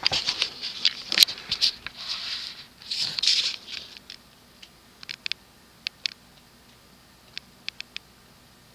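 Irregular scratchy rustling and clicking for the first few seconds, then scattered sharp ticks, over the faint steady hum of a cast-iron TAT Deluxe ceiling fan motor running on low speed with worn bearings.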